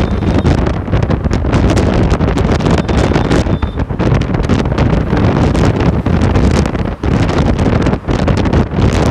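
Loud wind noise buffeting the microphone from the airflow of riding a bike, a dense low rumble that flutters constantly with brief dips.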